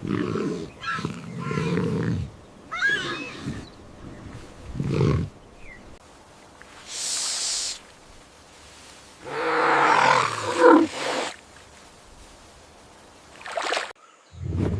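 Lioness and cub calling: a series of short, low, rough growls and grunts, with a short hiss about seven seconds in and a longer, louder call around ten seconds in.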